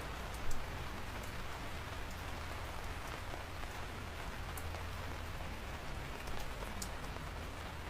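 Steady rain falling, with individual drops ticking sharply here and there over an even hiss and a low rumble. There is one brief louder splash about half a second in.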